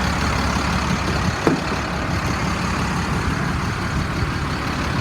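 International DT466 inline-six diesel engine of a 2007 International 4400 dump truck idling steadily with the PTO engaged, with one brief click about a second and a half in.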